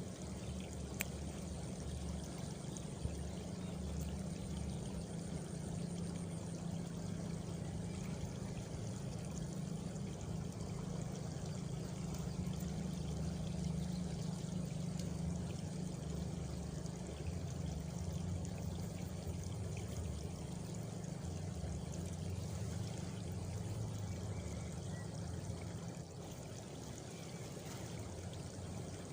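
Steady rushing of flowing water, heavy in the low end. During the first few seconds a faint, high, pulsing trill of an insect sits over it.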